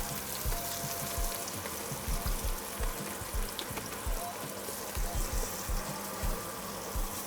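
Chopped onion, garlic and curry powder sautéing in hot peanut oil in a pan: a steady sizzle.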